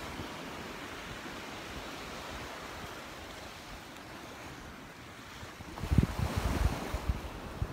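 Surf washing onto the beach as a steady rush, with wind buffeting the microphone in low gusty rumbles starting about six seconds in.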